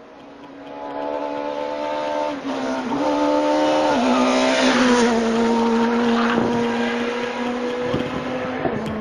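Rally car engine running hard at high revs: one steady pitched note that shifts up and down a few times in the first four seconds, then holds, with a hiss of tyre and road noise building around the middle.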